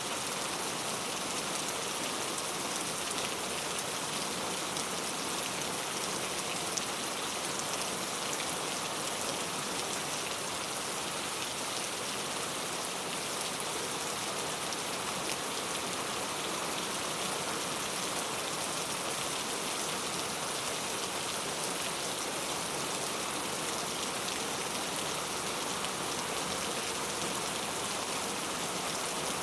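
Heavy rain falling steadily, a dense even hiss of drops hitting hard surfaces, with fine pattering ticks throughout.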